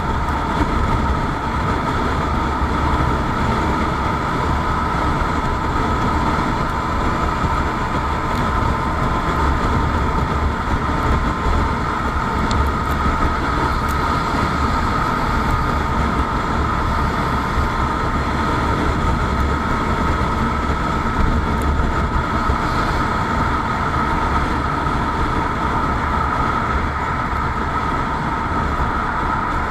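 Motorcycle running at a steady cruising speed, with continuous road noise and a deep rumble that stays even throughout.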